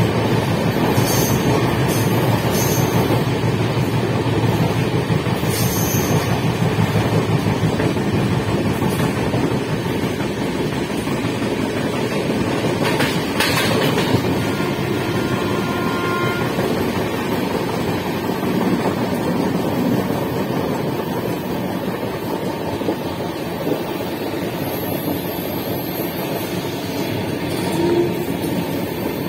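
Passenger train running steadily, heard from an open coach doorway: a continuous rumble of wheels on the rails, with a brief clatter about halfway through.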